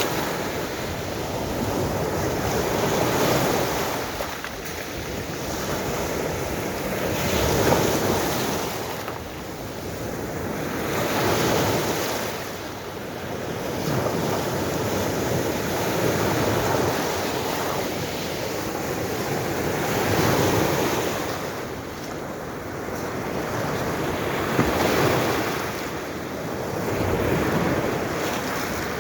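Baltic Sea waves breaking and washing in, swelling and easing every four or five seconds, with wind on the microphone.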